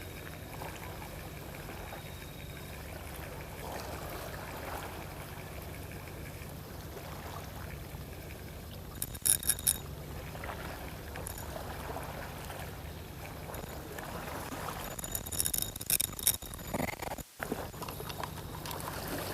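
Sea water lapping and trickling at the shore over a steady low hum, with a few sharp clicks about nine seconds in and again near the end.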